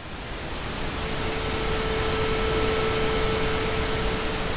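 A loud, even hiss that swells and then fades, with a steady low hum from about a second in until near the end.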